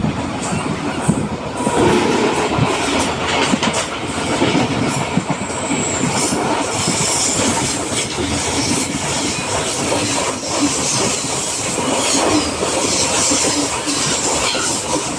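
MEMU electric train running on the rails: a loud, steady clatter of wheels over the track, with many small knocks throughout.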